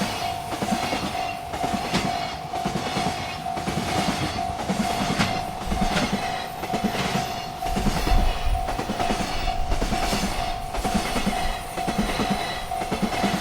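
Freight train cars rolling past, their wheels clattering over the rail joints in a steady repeating rhythm, with a continuous ringing tone from the railroad crossing bells.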